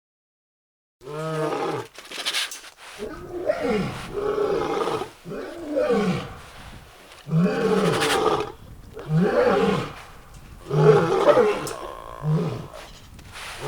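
A female Bengal tiger roaring in a series of loud calls, each about a second long, starting about a second in and repeating roughly every second and a half.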